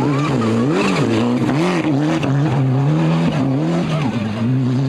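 Rally car engine revving hard, its pitch climbing and dropping several times through gear changes and lifts, then holding a steady note near the end.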